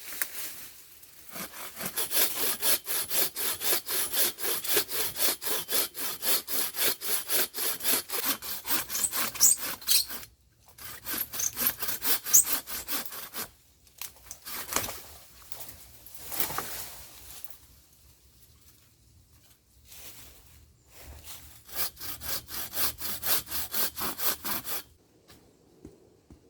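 Hand saw cutting through wood in quick, even back-and-forth strokes, about four or five a second, in several runs broken by short pauses.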